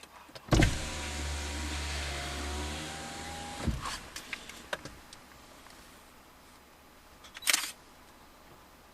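A car's electric window motor runs for about three seconds with a steady whir, starting and stopping with a clunk. A short sharp click comes near the end.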